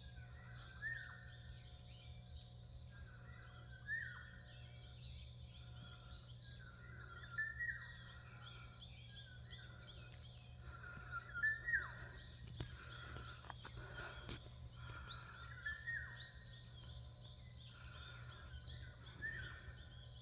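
Several wild birds chirping and calling in a forest, short repeated chirps overlapping, over a steady low hum. A few sharp clicks come about twelve seconds in.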